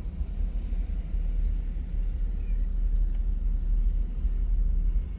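Low, uneven rumble of a car being driven in strong storm wind: road and wind noise heard from inside.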